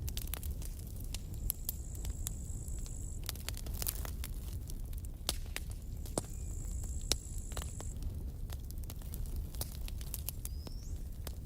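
Wood campfire crackling, with irregular sharp pops and snaps over a steady low rumble of the burning. A thin, high whistling tone comes and goes twice.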